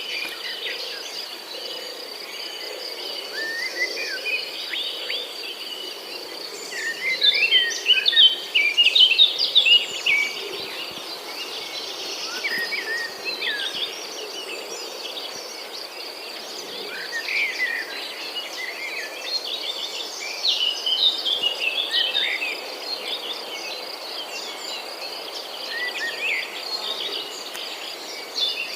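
Birds chirping in quick short notes over a steady high insect trill, such as a cricket's. The chirping grows busier and louder for a few seconds about a quarter of the way in and again about two-thirds in.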